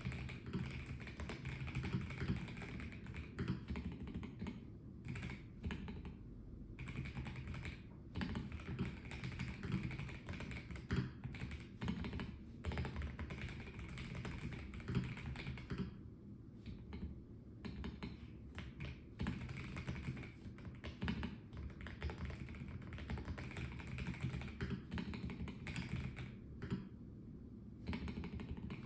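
Typing on a Melgeek Mojo84 mechanical keyboard with a plastic case: fast runs of key clacks that begin right at the start, broken by a few short pauses.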